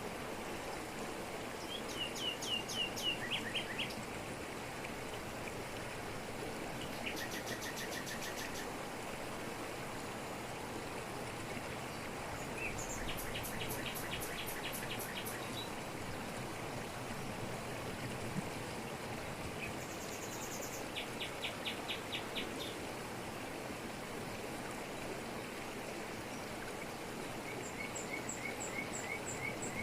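Jungle waterfall pouring steadily over rocks, with birds calling over it in short runs of rapid repeated notes, five times.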